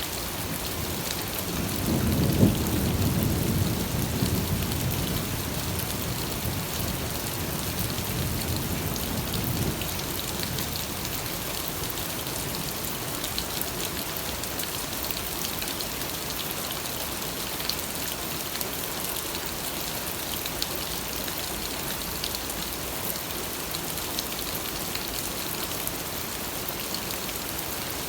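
Steady rain with a roll of thunder about two seconds in, rumbling low and dying away by about ten seconds.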